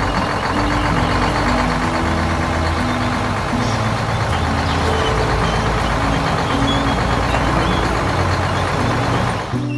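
A steady, noisy vehicle engine sound that starts abruptly and cuts off suddenly near the end, over background music with stepping bass notes.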